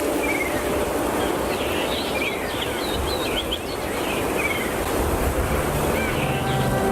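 Outdoor field ambience: a steady rushing noise with a run of short, high chirping calls in the first few seconds. Music fades in near the end.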